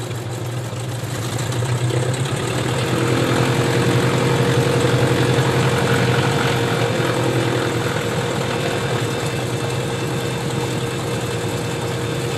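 Cessna 172RG's four-cylinder Lycoming piston engine running at low power after landing, a steady hum that grows louder about two seconds in and eases back after about seven seconds.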